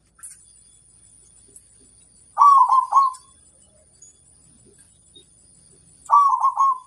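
Zebra dove (perkutut) cooing: two short phrases, each a rising note followed by three quick notes, about three and a half seconds apart.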